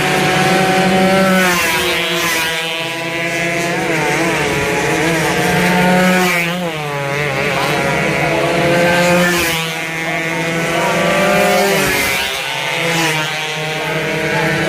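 Two-stroke racing motorcycles running hard, the engine note climbing and then dropping again every few seconds as they shift gears and pass by.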